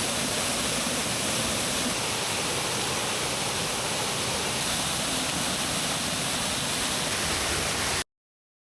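Steady rushing of water from a waterfall, an even roar that cuts off suddenly about eight seconds in.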